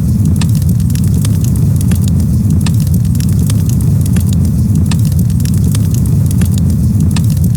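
Campfire burning: frequent sharp crackles and pops over a steady low rumble.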